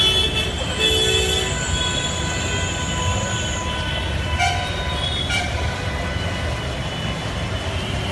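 Road traffic rumbling steadily, with vehicle horns sounding several times and a thin high squeal lasting a few seconds near the start.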